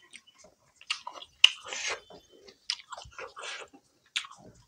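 Close-miked chewing of fried chicken kebab: wet mouth clicks and lip smacks, with a sharp smack about one and a half seconds in.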